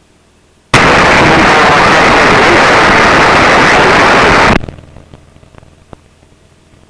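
Loud, steady rushing noise in the cockpit headset audio that cuts in suddenly, holds for about four seconds and cuts off just as suddenly, followed by a few faint clicks: the noise of a keyed or hot microphone on the aircraft's intercom/radio.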